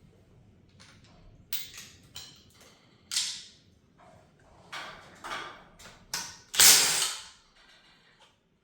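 Irregular clanks, knocks and scrapes of hand tools and metal engine parts being handled during an engine teardown, a handful of separate strokes with the loudest and longest, about half a second, coming near the end.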